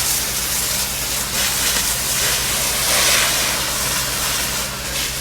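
Steady hiss of water spraying from a fire hose onto a fire, over the steady drone of a running engine.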